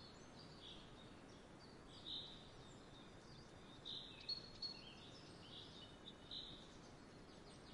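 Faint, scattered bird chirps, short high calls every second or so, over a low steady background hiss.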